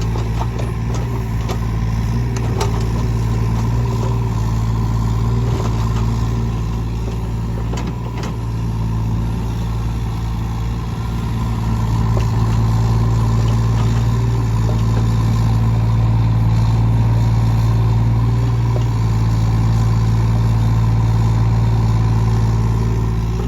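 Engine of a piece of heavy earthmoving equipment running steadily under work, with scattered clicks and knocks, rising a little in level about halfway through.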